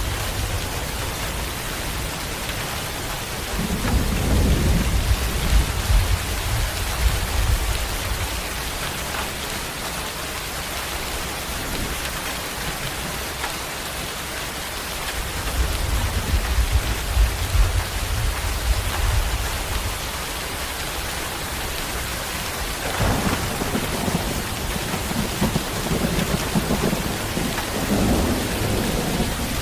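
Steady, heavy rain falling, with rolling thunder rumbling low three times: about four seconds in, again about sixteen seconds in, and a longer roll from about twenty-three seconds to near the end.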